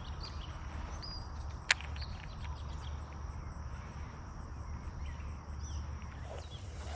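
Quiet outdoor ambience: a steady low rumble with a few faint high chirps, and one sharp click about a second and a half in.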